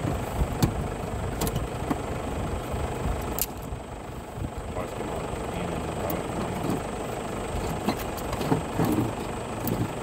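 A vehicle engine idling steadily, with scattered sharp clicks and knocks of a stick poking at the front of the car.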